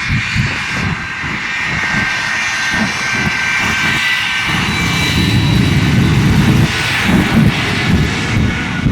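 Aircraft-type engine running steadily: a high whine of several held tones over a rough low rumble.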